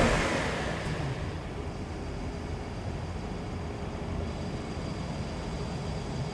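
A car's passing whoosh dies away over the first second, leaving a steady low engine and road rumble.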